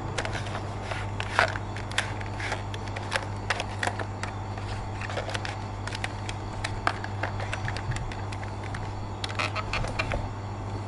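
Plastic toy parts and packaging being handled: irregular light clicks and crackles over a steady low hum.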